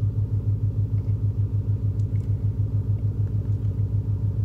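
Whipple-supercharged Ford 5.0 Coyote V8 of a 2018 Mustang GT idling, heard from inside the cabin: a steady low rumble that pulses about five times a second.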